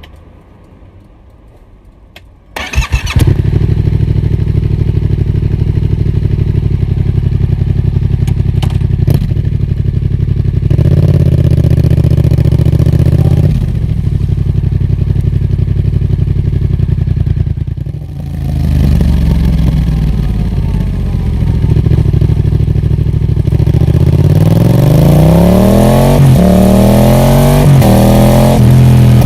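Yamaha MT-07's parallel-twin engine breathing through a Roadsitalia Special Carbon exhaust: it starts about two and a half seconds in and settles into a steady idle. There is a brief rise in engine speed near the middle, then a series of throttle revs rising and falling near the end.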